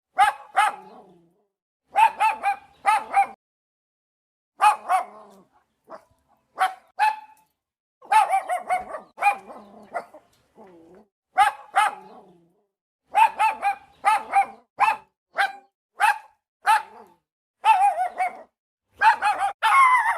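A dog barking repeatedly, in short groups of two or three barks with brief pauses between.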